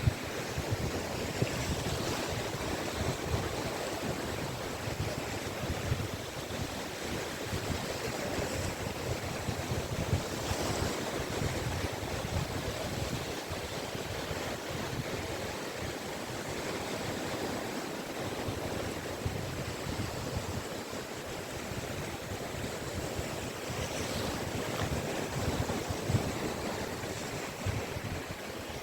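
Caspian Sea surf washing onto the beach: a steady rush of breaking waves that swells now and then. Wind rumbles on the microphone underneath.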